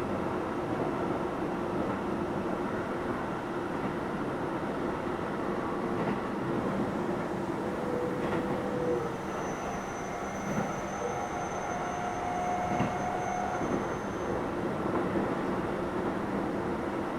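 Keio 7000 series electric train running, a steady rumble of wheels and motors, with faint high tones coming in and out in the middle.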